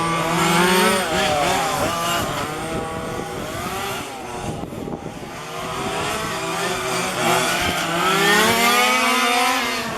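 Several 1:5 scale petrol RC cars' small two-stroke engines revving up and down as they lap the track, their high buzzing notes overlapping and rising and falling with throttle. A car passes close about a second in and again near the end, its note climbing.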